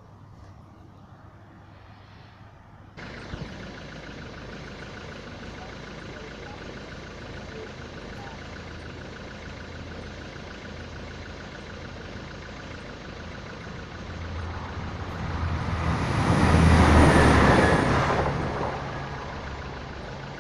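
A Class 175 diesel multiple unit passes the crossing. Its diesel engines and wheels on the rails build from about two-thirds of the way in, peak loudly, then fade within a few seconds. Before that, a steady rushing background jumps up suddenly about three seconds in.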